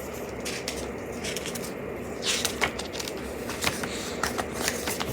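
Paper rustling and scattered light clicks from a paperback activity book being handled and its pages turned, with a brief swish about two and a half seconds in, over a steady low background hum.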